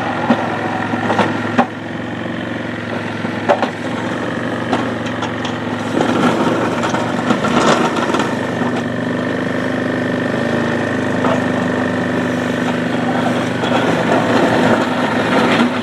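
ATV engine running steadily, with scattered sharp clicks and knocks.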